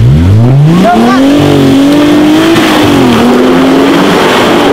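Jeep Wrangler's engine revved hard under load as it climbs up out of a deep dirt rut. The pitch rises steeply in the first second, then holds at high revs, wavering up and down, over a loud hiss of tyres and dirt.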